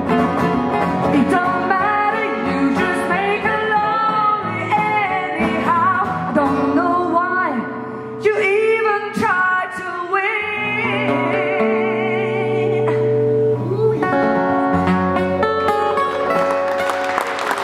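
Live folk-blues band music: guitars under a wavering wordless melody line in the closing bars of a song. Audience applause starts just at the end.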